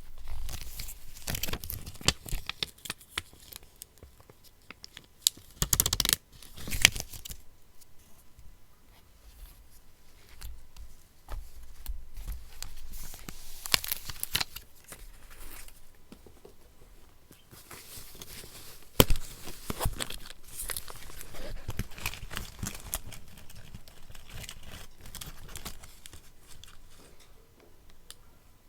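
Paper being torn and crinkled by hand for a collage, in irregular rustling strokes of a second or so, with scattered sharp clicks.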